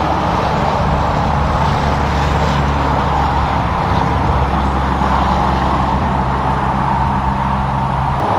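Heavy diesel truck, a Peterbilt livestock hauler, driving at highway speed: a steady low engine drone under constant tyre and road noise. The engine tone breaks off suddenly near the end.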